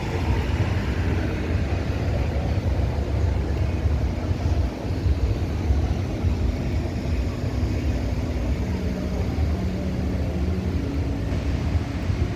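Busy city street ambience: a steady low rumble of passing traffic, with faint droning engine hums that come and go.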